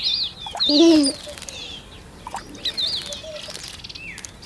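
Small garden birds at a bird bath, giving several short, high chirps that rise and fall, with brief flutters of wings as one bathes and then takes off.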